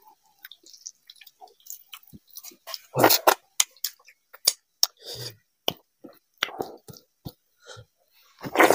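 Close-miked wet chewing and lip smacking of a man eating vegetable khichdi by hand, with squishing as his fingers press the rice and lentils together. Louder smacks come as he takes a mouthful about three seconds in and again near the end.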